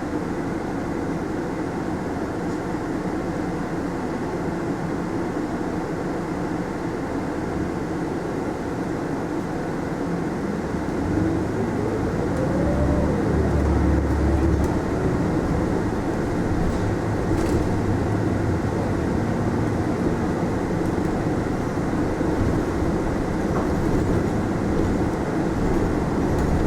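Cabin running noise of a Mitsubishi Fuso Aerostar city bus on the road. About halfway through it gets louder and the engine note climbs and then drops, as the bus accelerates and changes gear.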